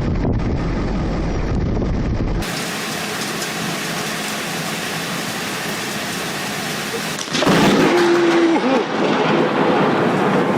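Wind buffeting the microphone, then after a cut steady heavy rain; about seven seconds in, a sudden loud thunderclap from a close lightning strike breaks in and rolls on as thunder over the rain.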